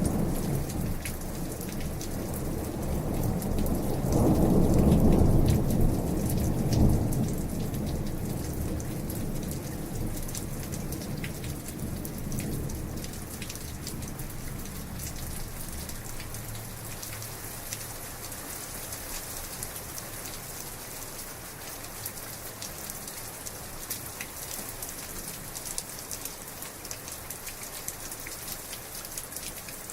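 Heavy rain falling steadily, with thunder rolling in: a deep rumble builds a few seconds in, peaks around five seconds, grumbles once more near the middle, then dies away, leaving the rain.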